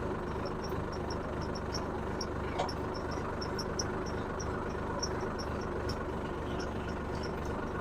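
Tractor engine running steadily while pulling a ridger through the soil to open cotton furrows. A faint high ticking repeats about four times a second over the engine.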